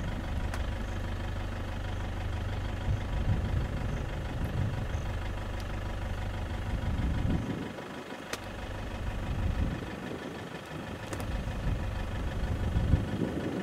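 Game-drive vehicle's engine running at low revs with a steady rumble. It eases off for a few seconds past the middle, then picks up again.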